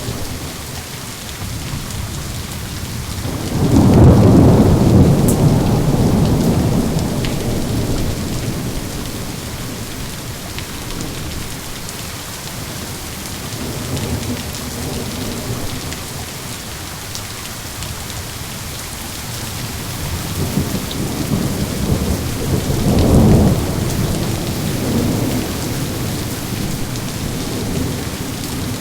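Steady heavy rain with thunder: a loud low rumble of thunder builds a few seconds in and rolls away slowly, then a second clap and rumble come near the end.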